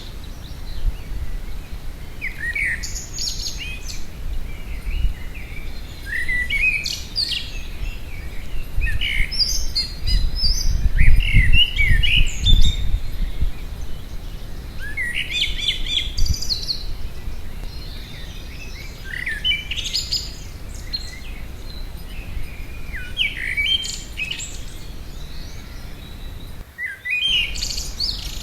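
A garden songbird singing short, varied phrases, one every few seconds, with a low rumble about ten to thirteen seconds in.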